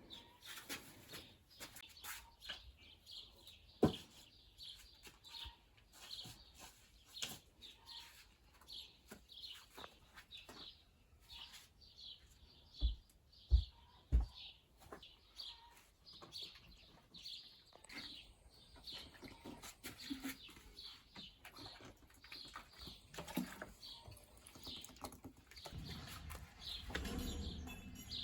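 A small bird chirping over and over, short high notes about two a second, with scattered clicks and a few dull thumps near the middle.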